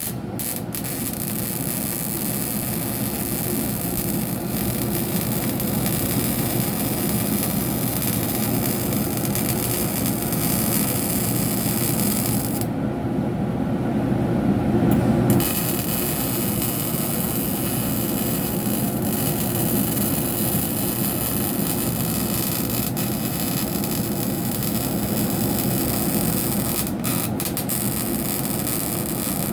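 MIG welder arc on steel, a steady crackling hiss that runs on unbroken except for a few seconds about halfway, when the high hiss drops away.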